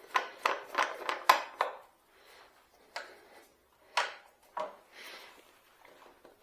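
Lathe fittings and wooden pieces being handled and set in place: a quick run of about six clinks and knocks, then three single knocks a second or so apart and a soft scrape.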